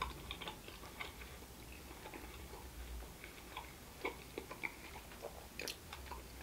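A person chewing a mouthful of fried falafel close to the microphone: irregular small wet clicks and light crunches, a few louder ones in the second half.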